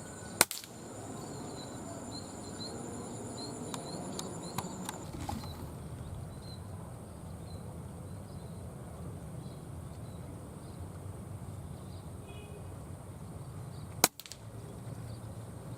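Two air-rifle shots, sharp single cracks about thirteen and a half seconds apart, over a steady outdoor background of insects buzzing until about five seconds in.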